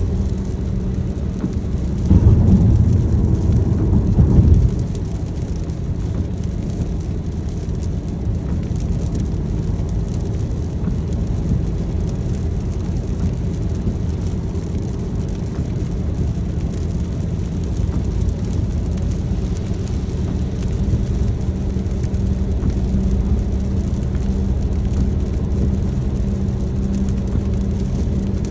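Car driving in the rain: steady road and engine noise mixed with rain. A louder low rumble runs for a couple of seconds about two seconds in.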